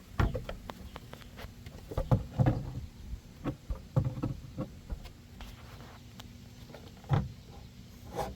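Plastic air intake duct being pulled off the throttle body by hand after its hose clamp is loosened: irregular clicks, rattles and knocks of plastic and rubber, with louder knocks about two, four and seven seconds in.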